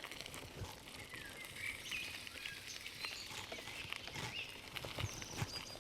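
Small birds chirping and calling in short curving phrases over steady outdoor background noise, with scattered clicks and low knocks throughout.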